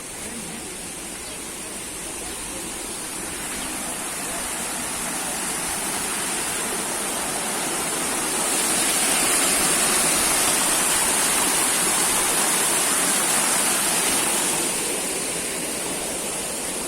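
Waterfall rushing as a steady roar of falling water, growing louder into the middle and easing off somewhat near the end.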